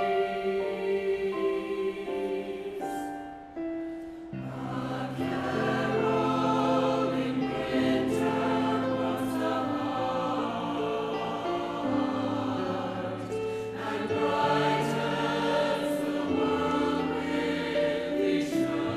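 Chamber choir singing in harmony. A phrase ends about three seconds in, and after a brief lull a new, fuller phrase begins about four seconds in.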